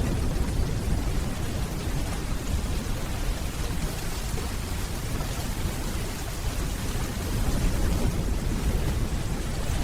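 Steady rainfall with a continuous low rumble of distant thunder beneath it.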